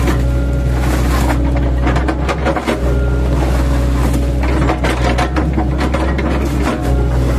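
An 8-ton excavator's diesel engine running steadily, with irregular knocks and cracks as its bucket, fitted with chipping blades, chops oil palm trunks.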